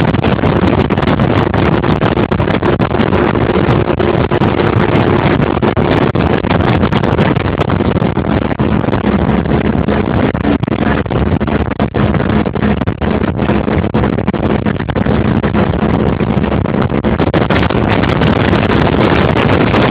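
A boat's engine running steadily while under way, with wind buffeting the phone's microphone. A faint engine hum settles lower in pitch about halfway through.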